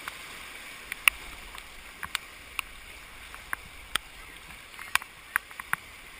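Paddling on a flowing creek: a steady rush of water with about a dozen sharp, irregular clicks and knocks of paddle on boat.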